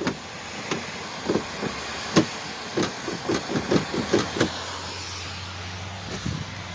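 Car door latch and door being worked by hand: a quick run of short clicks and clunks, about a dozen close together in the middle, as the door fails to latch shut.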